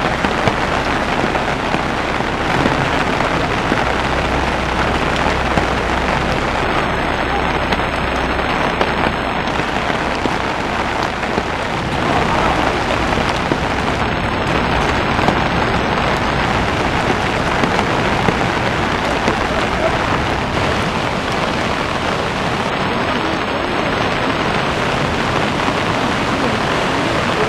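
Heavy downpour and rushing floodwater making one dense, steady hiss that doesn't let up.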